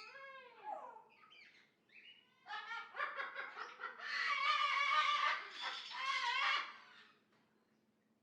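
Parrot calling: a falling squawk right at the start, then a run of loud, harsh calls from about two and a half to seven seconds in.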